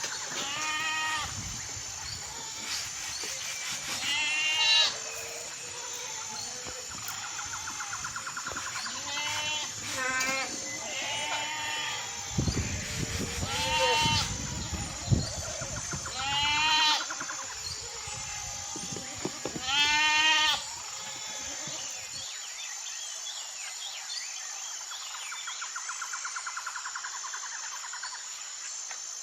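Livestock bleating: about eight quavering calls, each a second or so long and a few seconds apart. The calls stop about 22 seconds in, and a faint buzzing carries on after that.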